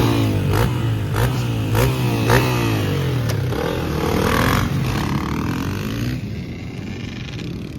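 Motocross bike engine revving hard through several quick gear changes, its pitch climbing and dropping about every half second. It then fades away about six seconds in.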